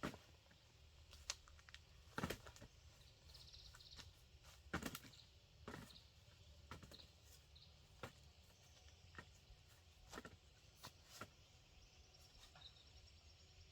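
Faint scattered clicks and knocks at irregular intervals, with a brief bird twittering about three to four seconds in.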